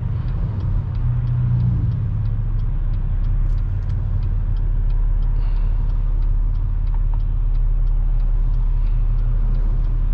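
Steady low engine and road rumble heard inside a car's cabin, with the turn-signal indicator clicking evenly about three times a second.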